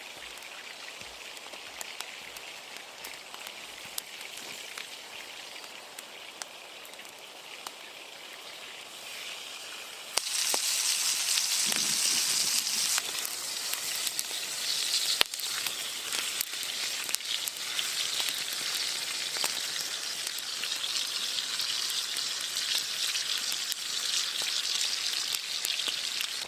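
Food sizzling in a hot pan, starting abruptly about ten seconds in and holding steady, over a lighter background hiss with scattered ticks; one sharp click about fifteen seconds in.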